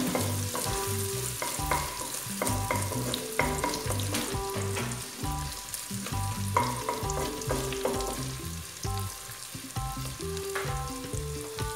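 Diced bacon and calabresa sausage sizzling as they fry in their own rendered fat in a large stainless steel pot, with a wooden spoon stirring and scraping the pieces at times. Soft background music with a stepping bass line plays underneath.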